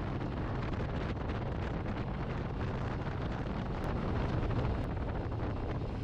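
Wind buffeting the microphone over the steady low drone of a Harley-Davidson motorcycle riding at highway speed.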